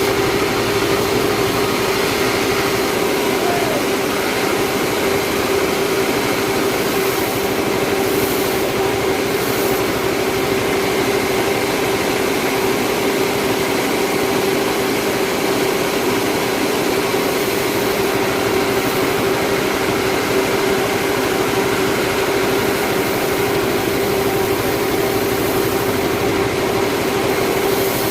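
Sawmill machinery running steadily: a constant drone that holds one pitch, with a dense machine noise underneath and no change in speed.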